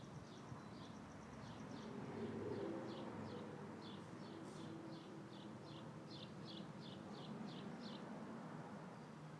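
A bird giving a steady run of short, high chirps, about two or three a second, over a low rustle of wind in a tree. A low hum swells and fades about two to three seconds in.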